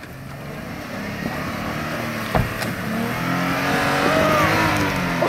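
Jeep Wrangler's 3.6-litre Pentastar V6 engine working under load as it climbs a steep bank, growing steadily louder as it nears. A single sharp knock sounds about two and a half seconds in.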